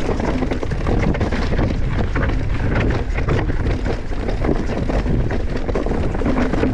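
Mountain bike riding fast down a rocky trail: wind buffeting the microphone as a low rumble, over a dense, irregular clatter of tyres and bike rattling over rocks and gravel.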